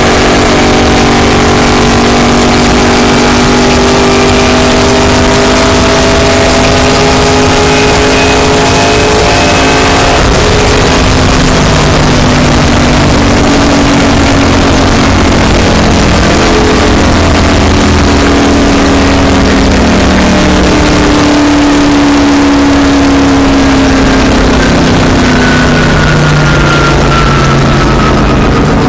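Race car engine running loud at speed, its pitch slowly rising and falling with the revs.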